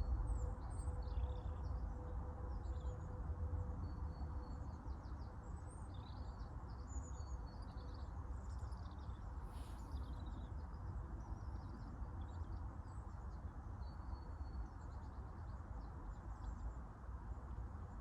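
Small birds chirping and singing, many short high calls scattered throughout, over a steady low outdoor rumble.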